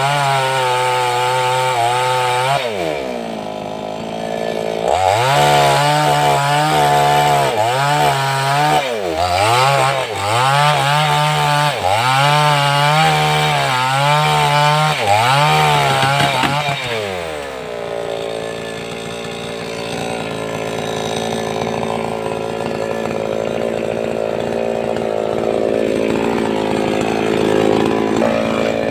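588X two-stroke chainsaw cutting into sengon wood, the engine speed rising and sagging under load over and over. About two-thirds of the way through it drops back to a lower, steady idle.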